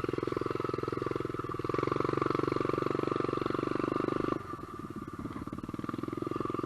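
SSR125 pit bike's single-cylinder four-stroke engine pulling through a mud hole; the throttle opens up about two seconds in, drops off sharply a little past the middle, then builds again near the end.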